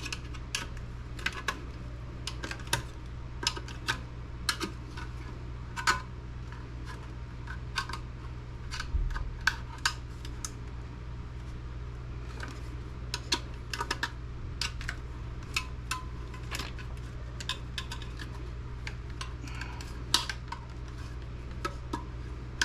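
Irregular clicks and clatters of hand tools and small metal and plastic parts while a desktop computer is taken apart, over a steady low hum.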